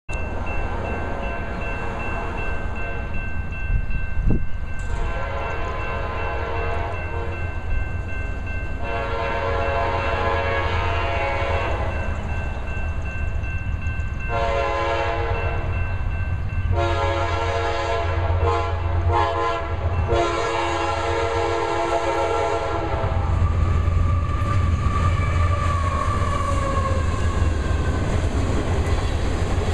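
Approaching freight diesel's air horn sounding four blasts, the third shorter and the last longest, the pattern of a grade-crossing signal. After the horn the low rumble of the GE diesel locomotives swells as they pass, followed by the steady rolling and clicking of loaded coal hopper wheels over the rail joints.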